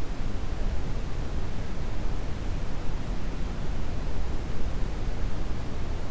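Brown noise: a steady, even rush of noise, strongest and deepest in the low end, with no changes.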